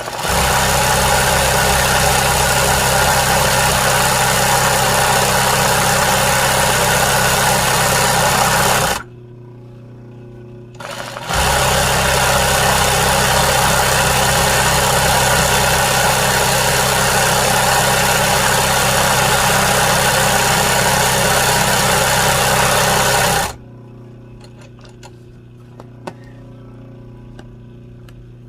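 Sewing machine stitching embroidery at high speed in two long, steady runs: it stops about nine seconds in, gives a short blip, runs again from about eleven seconds in and stops about five seconds before the end, after which only faint light ticks remain.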